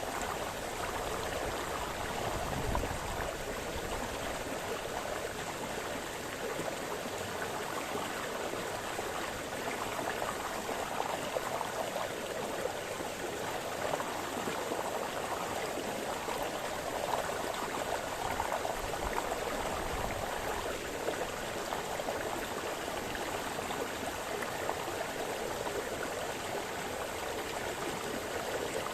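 A forest brook splashing and burbling over stones, a steady flowing-water sound with small ripples of variation.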